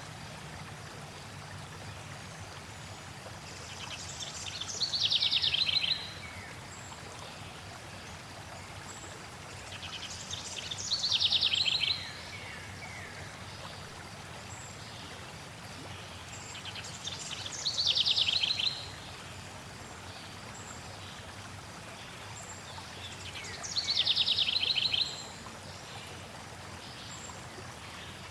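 A songbird repeats the same short trilled song four times, about every six and a half seconds, each song falling in pitch. Beneath it runs a steady hiss of flowing water.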